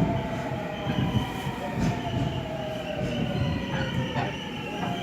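Seoul Metro Line 7 electric subway train braking into a station: a whine of several tones falls slowly in pitch over the rumble of the running gear, with a brief knock about four seconds in.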